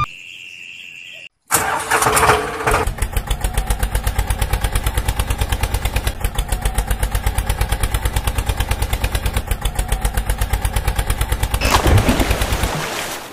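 Engine starting about a second and a half in, then running at idle with a fast, even chug. It revs up briefly near the end and then stops.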